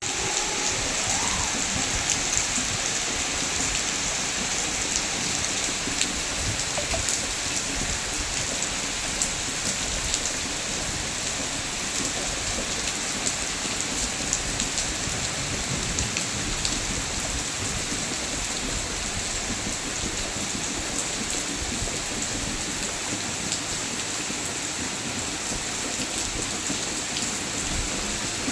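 Steady rain falling, with many separate drops ticking through a continuous hiss.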